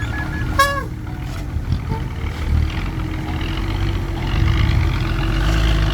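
Diesel truck engine running, growing louder about four seconds in. A short falling chirp sounds just after the start.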